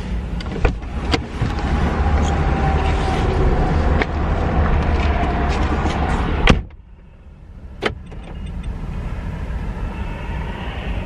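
Steady low rumble of a parked car's cabin with scattered clicks and knocks, ended by a car door shutting about two-thirds of the way through. After that the sound is much quieter, with one more click a second later.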